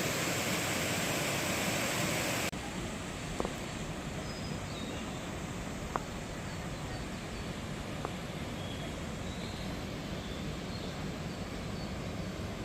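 Rushing water of a mountain stream, a loud steady rush that cuts off abruptly about two and a half seconds in to a softer, duller flow. Faint high chirps and three sharp ticks sit over the softer flow.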